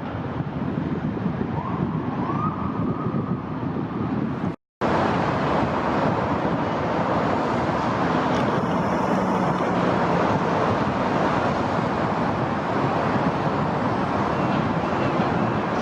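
Wind on the microphone over the steady noise of downtown city traffic far below. The sound drops out for a moment about five seconds in, then resumes slightly louder.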